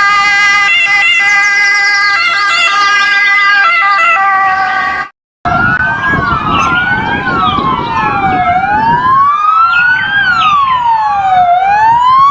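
A steady, slightly warbling electronic siren tone for about five seconds, then after a brief break several wailing sirens overlapping, each rising and falling in pitch.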